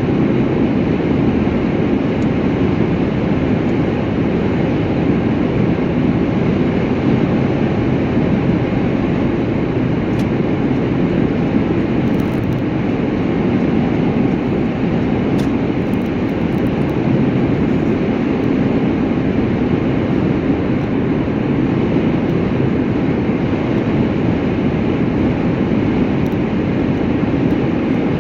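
Steady low rumble and hiss of a vehicle travelling at an even speed, with no changes in pitch or level.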